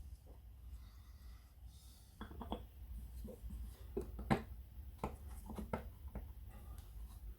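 Faint scattered clicks and light knocks from hands handling a small aluminium cutting oil pot and its brush, over a low steady hum.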